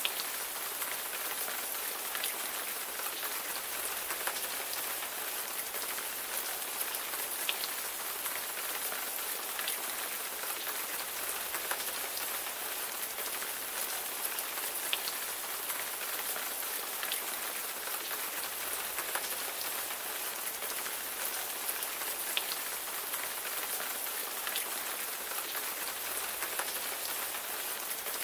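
Steady rainfall: a constant hiss of rain with individual drops ticking sharply here and there.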